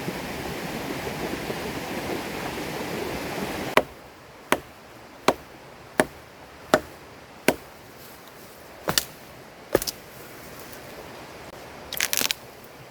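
A river rushes steadily for the first few seconds. It then gives way to a run of sharp wooden chopping strikes, about one every three-quarters of a second, followed by a few irregular double knocks and a short burst of them near the end: firewood being chopped with a blade.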